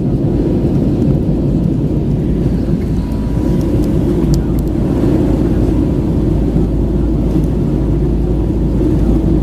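Airbus A320 cabin noise in flight: a steady low rumble of the jet engines and airflow, with a few faint ticks about four seconds in.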